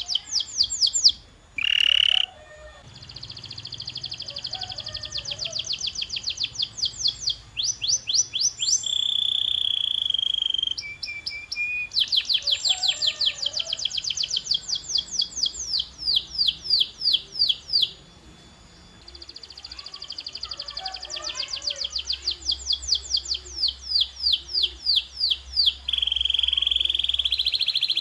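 Canary singing: fast trills of repeated high notes, changing from one run to the next, with held whistled notes in between.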